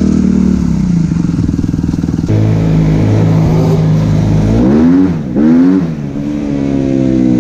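Suzuki RM-Z250 single-cylinder four-stroke motocross engine through an open Akrapovič exhaust, running under way; its note drops about two seconds in, then rises and falls twice in quick revs around five seconds in before settling steady.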